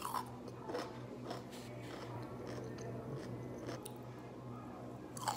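A person chewing a snack of raw bell pepper with cream cheese, making irregular crunches, over a steady low hum.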